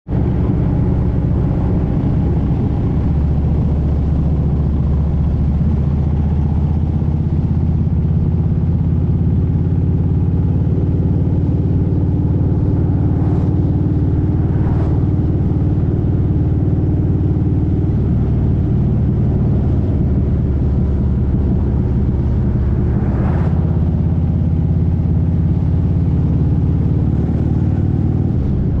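Motorcycle engine running steadily at road speed, heard from on board; its note drops for a few seconds past the middle, then picks up again.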